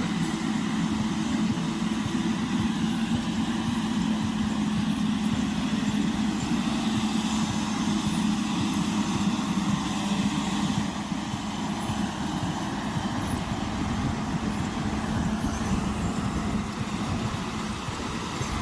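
Timberjack 450C skidder's diesel engine running steadily with a low, even drone while hauling logs, dropping slightly in level about eleven seconds in.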